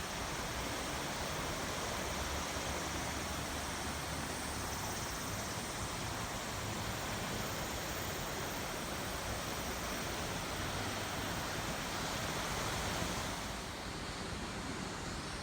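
Steady rush of flowing river water over rapids, turning slightly softer near the end.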